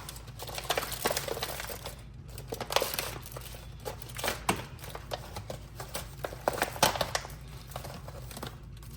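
Disposable foil pans being crumpled and crushed by hand for the trash: an irregular crackling and crinkling with sharp pops throughout.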